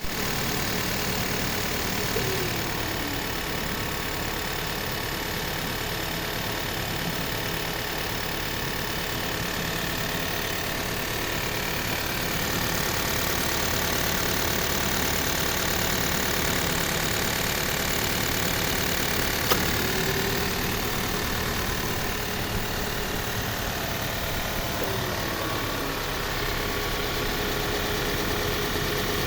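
Subaru Forester SK's 1.8-litre turbocharged boxer four idling steadily with an abnormal noise from the engine bay that sounds like tappet noise, which a dealer mechanic puts down to a likely failing fuel pump.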